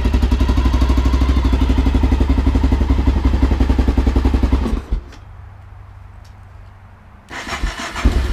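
Honda XR650L's single-cylinder four-stroke engine running on choke with an even, rapid beat, then dying suddenly about five seconds in, starved of fuel because the fuel tap was left off. Near the end it is cranked again in a loud, uneven burst as a restart is tried.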